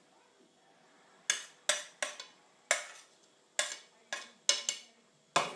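A kitchen utensil clinking against a dish while food is served out: about nine sharp clinks at irregular intervals, starting about a second in.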